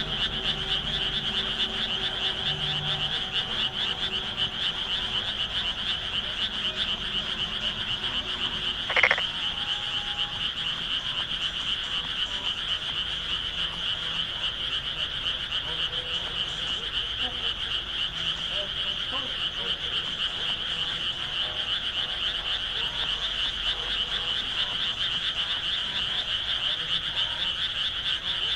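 Dense, steady chorus of many frogs calling from the rice paddies, a continuous high-pitched trilling mass of calls. About nine seconds in, one brief louder sound stands out above the chorus.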